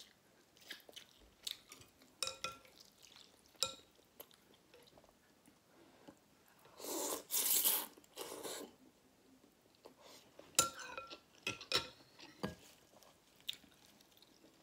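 Mukbang eating sounds from a bowl of noodle soup: utensils clicking and clinking against the bowl, soft chewing, and a loud slurp of about two seconds around the middle.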